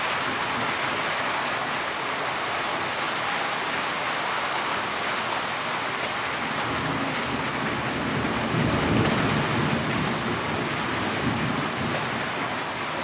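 Heavy rain falling steadily in an even hiss, with a low rumble of thunder that swells and fades about eight seconds in.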